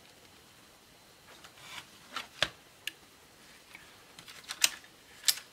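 Small clicks and rubbing of hands and tools working at the opened laptop's plastic and metal parts, trying to free the stuck motherboard: quiet at first, then a few sharp clicks about two seconds in and twice near the end.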